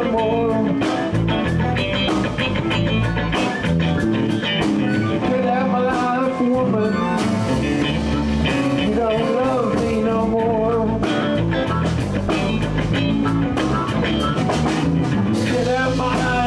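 A live blues band playing a blues in A, with electric guitar, bass and drums, and a lead line that bends in pitch over the band.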